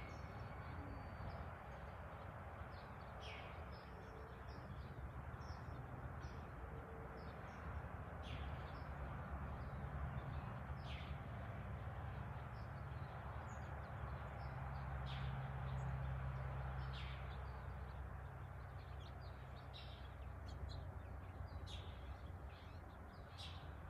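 Small birds chirping outdoors, short scattered calls throughout, over a steady low background rumble.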